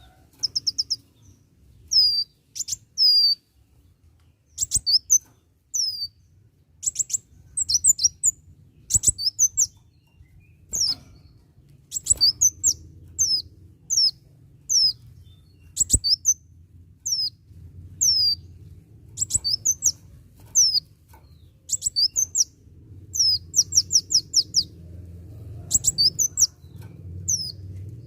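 Kolibri wulung sunbird singing vigorously: quick bursts of short, sharp, high-pitched chirps that sweep downward, repeated every second or two, over a faint low hum.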